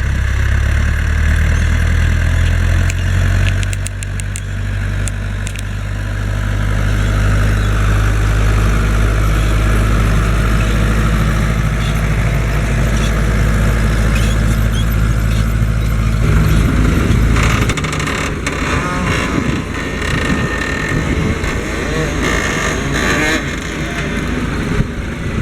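Fendt Farmer 106 S tractor's diesel engine running steadily with a deep, even note. About two-thirds of the way through the deep note falls away, and the engine runs on lighter and rougher.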